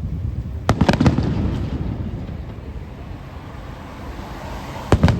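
Aerial fireworks shells bursting: a quick cluster of sharp bangs about a second in, trailing off into a rolling low rumble, then another loud bang near the end.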